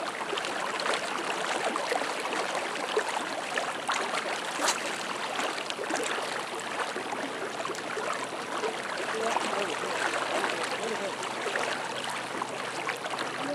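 Swollen, fast-flowing river water rushing steadily, with a sharp click a little under five seconds in.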